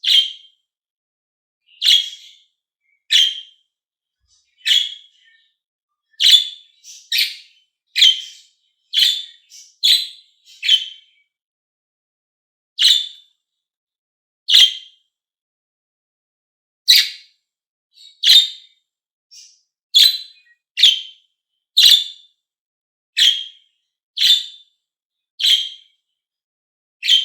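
Pet lovebirds giving short, sharp, high chirps one at a time, about twenty of them at irregular intervals of roughly a second, with a couple of longer pauses.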